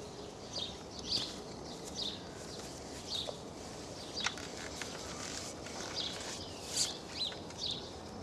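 Birds chirping, short high calls coming every second or so over a steady outdoor hiss, with a few sharp clicks about halfway through.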